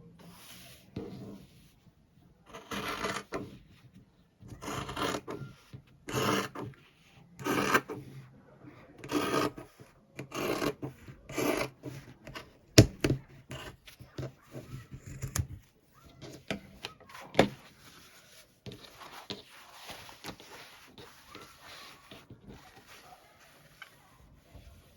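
Rubbing and rasping on fabric during sewing work: a run of strokes about one every second and a half, then a sharp click and quieter rustling.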